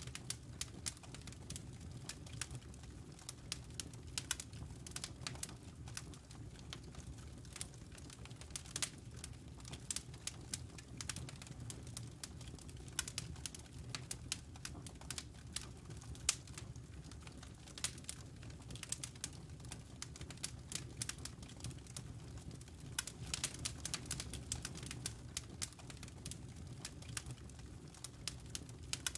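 Campfire crackling: irregular sharp snaps and pops from burning wood and embers over a low steady rumble of flame, with denser runs of crackles here and there.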